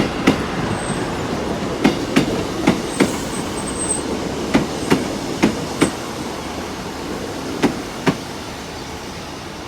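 A Class 158 and Class 150 diesel multiple unit pair rolling slowly past on the rails, its wheels clicking over rail joints in quick pairs as each bogie crosses. The clicks thin out and stop about eight seconds in and the rumble gets quieter as the train slows.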